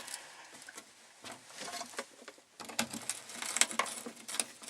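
Bolts being screwed down with a hand tool: irregular runs of light clicks and scrapes, busier in the second half.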